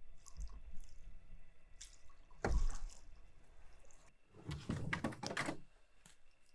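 Canoe paddling: water splashing as the paddle dips, once about two and a half seconds in and in a quick cluster of strokes around five seconds in.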